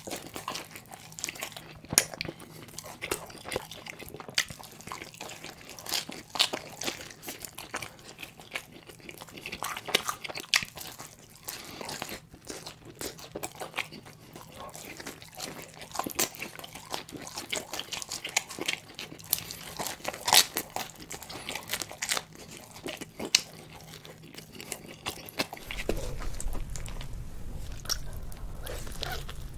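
Close-miked biting and chewing of pizza: irregular sharp bites and wet mouth sounds, several a second. Near the end a steady low hum comes in under the chewing.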